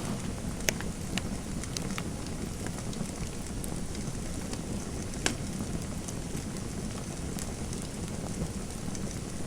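Fire crackling in a fireplace: a steady low rumble of burning with scattered sharp pops, the loudest a little after five seconds in.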